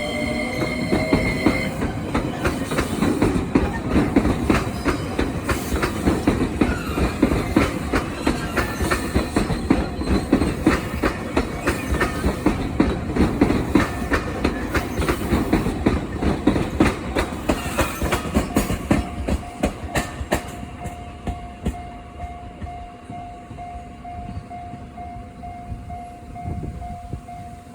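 A train running past on the rails, its wheels clattering in rapid clicks over the rail joints, loud for about twenty seconds and then fading away. As it fades, a steady tone carries on to the end.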